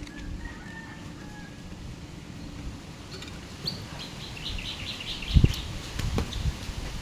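A bird chirping in a quick run of short high notes about halfway through. A few low thumps follow near the end.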